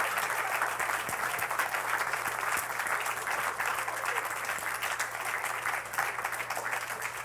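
A congregation applauding steadily: many hands clapping together in a continuous patter.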